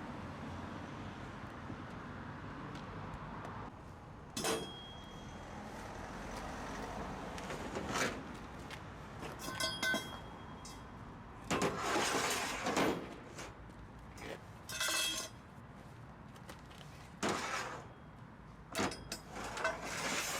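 A low steady rumble for the first four seconds, then a series of irregular metal clanks and rattles, several ringing briefly.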